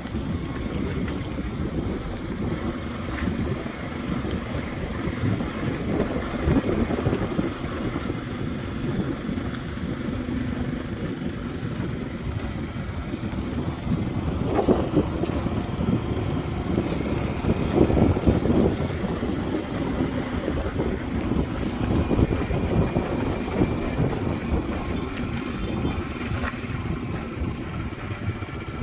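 Motorbike running at riding speed, its engine hum under steady wind buffeting on the microphone.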